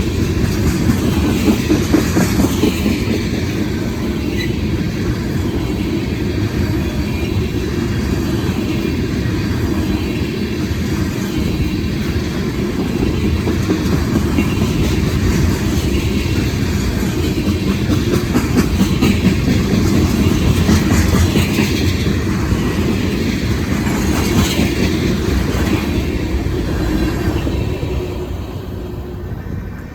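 Loaded tank cars of a long freight train rolling past, steel wheels clicking over the rail joints with a steady clickety-clack. The noise eases off near the end.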